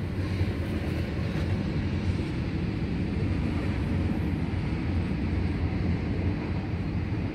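Double-stacked container cars of a CN intermodal freight train rolling past, a steady low rumble heard from inside a car.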